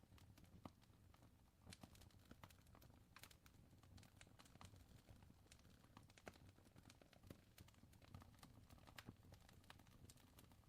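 Faint fire crackling: irregular sharp pops and snaps, several a second, over a soft low rumble.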